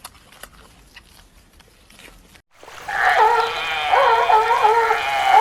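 A dog whining in long, wavering, pitched calls that start loudly after a cut about halfway through; the first half holds only faint scattered clicks.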